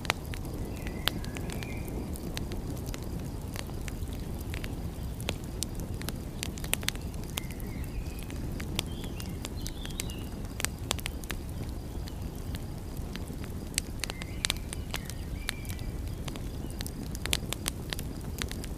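Wood fire crackling, with frequent irregular sharp pops over a steady low rush. A few faint short chirps come and go.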